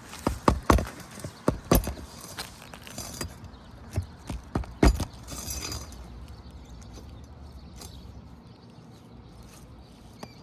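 Irregular sharp knocks and taps from hand-tool work on asphalt shingles, about a dozen in the first five seconds, then a short scrape and a faint steady background.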